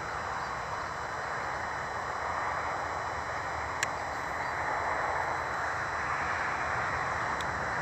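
Steady hiss of distant road traffic, with one faint click about four seconds in.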